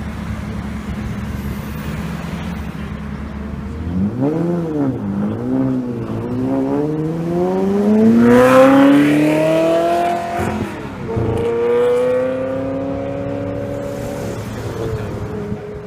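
Supercar engine idling with a low rumble, then blipped twice and accelerated hard, its note rising steeply to a loud peak about halfway through. It drops briefly at a gear change and rises again before settling into a steady tone near the end.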